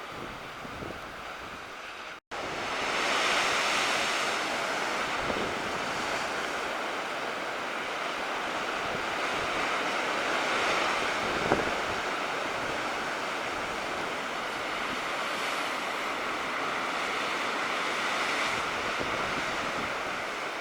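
Black Sea surf breaking on the shore in slow swells, with wind noise on the microphone. The sound cuts out briefly about two seconds in, then comes back louder.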